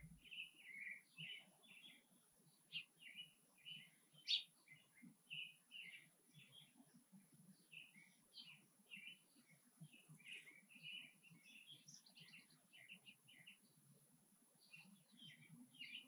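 Faint bird chirping: a steady scatter of short, high chirps in uneven runs, with one sharper, louder chirp about four seconds in.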